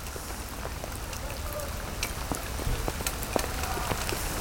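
Heavy rain falling steadily, with many individual drops tapping close by on the plastic bag draped over the camera.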